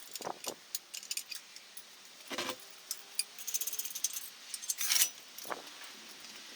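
Light metallic clinking and jingling, with scattered sharp clicks and a couple of louder knocks.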